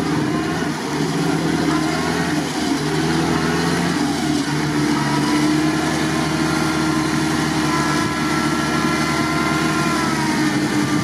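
GAZ-69 engine running under load as the jeep crawls through deep mud and water, its pitch shifting as the revs change.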